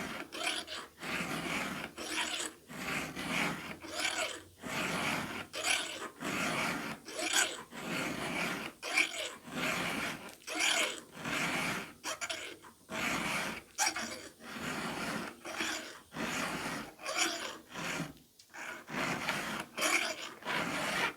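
Hand file stroked over a chainsaw chain's cutter tooth, a rasping stroke repeated steadily about once a second as the tooth is sharpened, the file dragging on the tooth's top plate.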